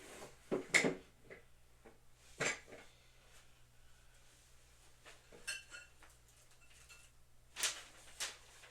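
Hard parts, some of them metal, knocking and clinking together about six times, one of the clinks ringing briefly.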